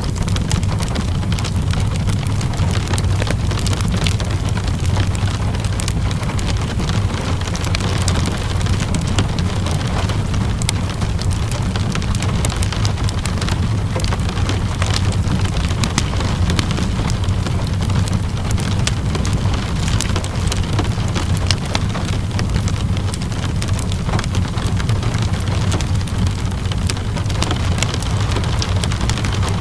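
Steady rain mixed with a crackling wood fire: an even hiss of rain over a low rumble, dotted with frequent small sharp crackles and drips.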